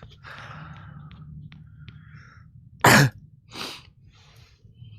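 A person coughs loudly once, about three seconds in, followed by a softer cough half a second later.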